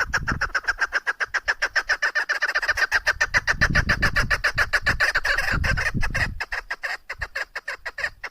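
Female chukar partridge calling: a long, rapid run of short repeated notes, several a second, thinning out and becoming irregular near the end.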